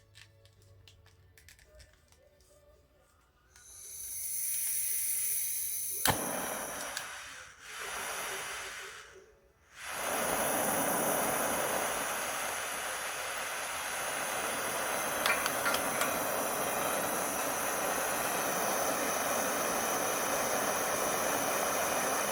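Propane torch hissing: the gas comes on and off in short spells, with a sharp click about six seconds in, then from about ten seconds in the torch burns with a steady hiss.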